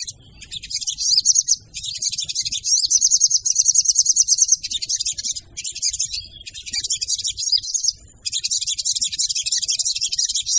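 Sogon songbird calling in long runs of very rapid, high chattering trills broken by brief pauses: the female sogon's call used as a lure for other sogon birds.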